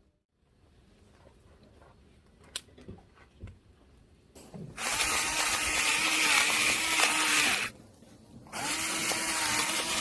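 A small electric motor runs with a steady whine and airy hiss in two bursts. The first starts about five seconds in and runs for about three seconds; the second starts after a short pause and runs to the end.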